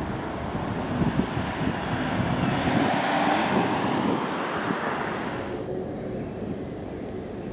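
A vehicle passing close by: its noise swells to a peak about three seconds in, then falls off sharply after about five and a half seconds.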